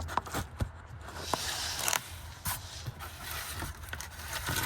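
Metal tools and parts clinking and scraping, with a few sharp clicks, while working on the car's underside.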